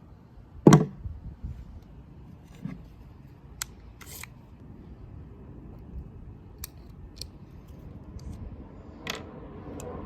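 Mechanical clicks and clacks from an EMG Salient Arms airsoft gun being handled: one loud clack just under a second in, then a scatter of lighter, sharper clicks spread through the rest.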